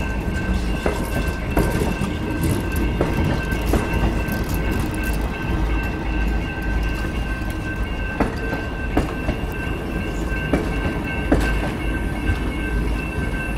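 Grand Canyon Railway train rolling past with a steady low rumble, its wheels clicking irregularly over rail joints, while a steady high squeal rings from the wheels.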